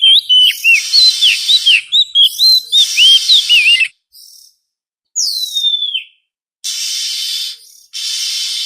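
Oriental magpie-robin (kacer) song: a quick run of varied whistled notes sliding up and down for about four seconds, then a single long falling whistle, with harsh, raspy notes between the phrases.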